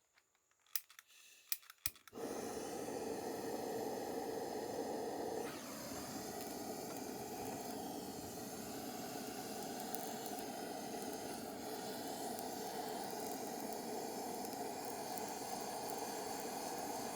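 A few sharp clicks, then a steady hissing rush of burning flame that starts abruptly about two seconds in and keeps going with little change.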